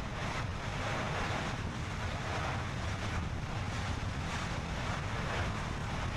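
Steady wind and road noise from a car driving along, with wind buffeting the microphone in faint irregular gusts.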